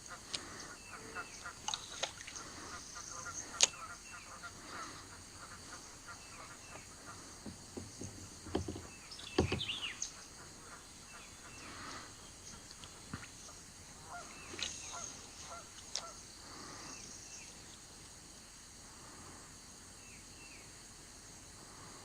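Scattered bird calls along a creek, among many faint sharp clicks, with a louder burst of sound about nine seconds in.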